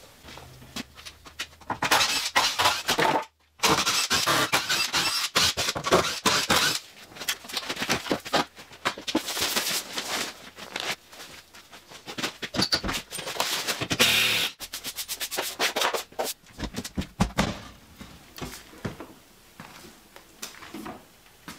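Rapid, dense clatter of knocks, scrapes and squeaks, busiest in the first half and thinning out toward the end.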